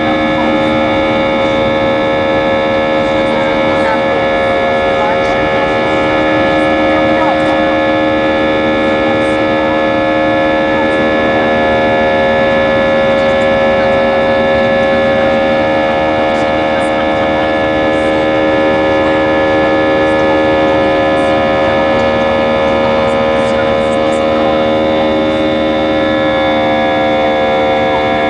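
Airbus A320 jet engines running under steady power, a whine of many steady tones over a roar, with a slight shift in pitch near the end.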